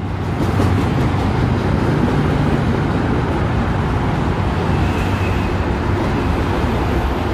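Freight cars rolling past: a loud, steady rumble of steel wheels on the rails.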